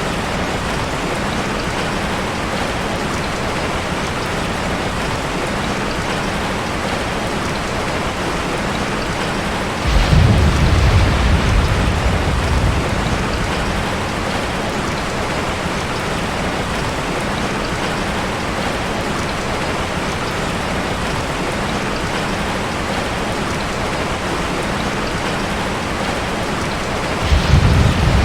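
Heavy rain falling in a steady hiss, with two low rumbles of thunder: one about ten seconds in that lasts a few seconds, and another starting near the end.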